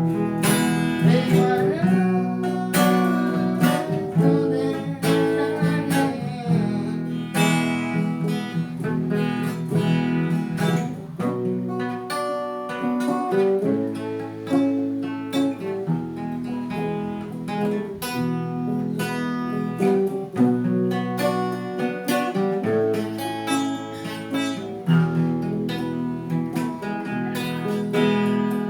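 Acoustic guitar strumming chords, the chord changing every second or two.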